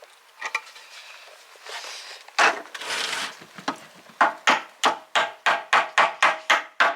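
Hammer striking wood in a quick, even run of about five blows a second, each with a short ring. The run is led by a brief scraping of wood a few seconds earlier.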